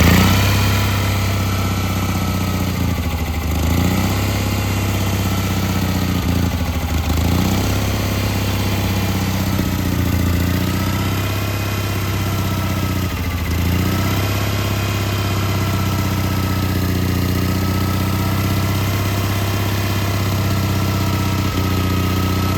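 Old Onan generator's engine running cold on choke just after a cold start, its speed sagging and recovering about every three to four seconds before holding steadier in the second half.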